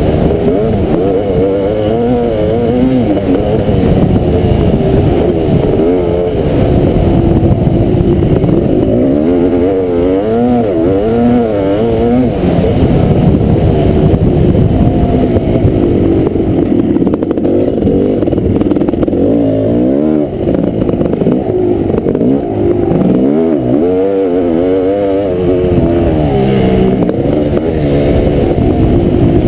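Kawasaki KX500 two-stroke single-cylinder dirt bike engine being ridden hard, its revs rising and falling again and again as the throttle is opened and closed.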